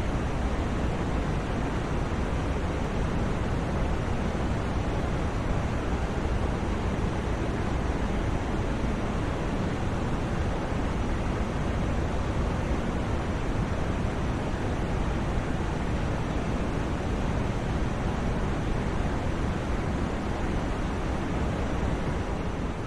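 Steady, unchanging white noise played as a sleep sound, heavier in the low end and thinning out in the highs.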